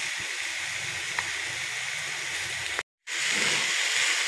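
Grated coconut sizzling in a hot steel wok as sugarcane jaggery goes in, a steady hiss. After a brief cut-out about three seconds in, the hiss comes back louder as a spatula stirs the jaggery into the coconut.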